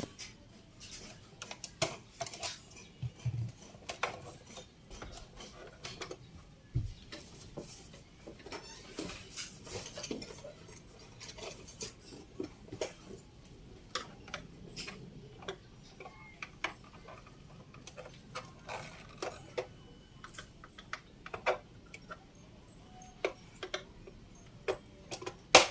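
Irregular clicks, taps and knocks of a Brother BS-40 compact sewing machine's plastic cover and parts being handled with tools as it is taken apart.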